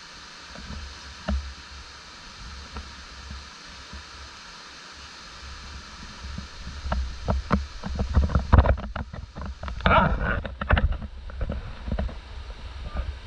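A mountain stream runs steadily. From about six and a half seconds in, clusters of knocks, scrapes and low rumbling come close to the microphone, loudest between eight and eleven seconds, as a hiker scrambles over slippery rocks and roots.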